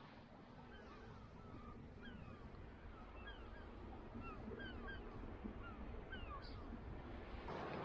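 Birds calling: a run of short, falling chirps, repeated every half second or so over a faint background hiss. A louder rush of noise sets in near the end.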